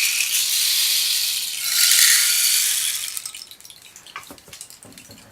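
Rain stick tipped over, its beads pouring down inside as a steady rushing hiss that swells again just before two seconds in and dies away after about three seconds into a few scattered ticks.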